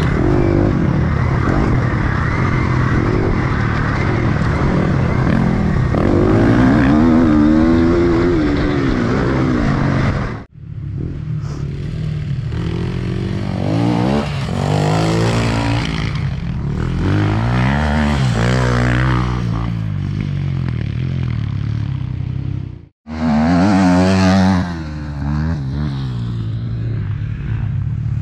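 Enduro motorcycle engine being ridden, revving up and down again and again as the throttle is worked. The sound cuts off abruptly twice, about ten seconds in and again about twenty-three seconds in, then carries on.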